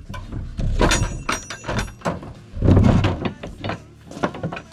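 A door being pushed and pulled in its frame, knocking and scraping, with a heavy thud about two and a half seconds in; the door still binds against the frame.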